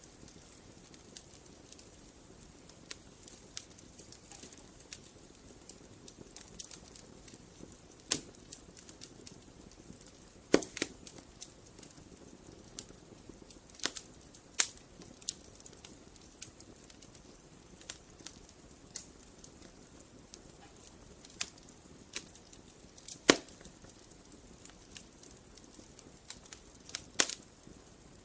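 Wood fire crackling: irregular sharp pops and snaps over a low steady hiss, with a few much louder snaps scattered through.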